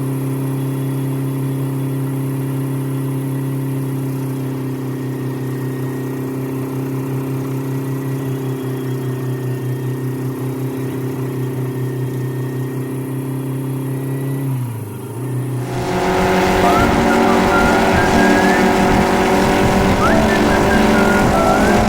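Helicopter engine and rotor drone heard inside the cabin: a steady low hum. Near the 15-second mark the pitch dips briefly, then the sound turns louder and rougher, with wavering higher tones over it.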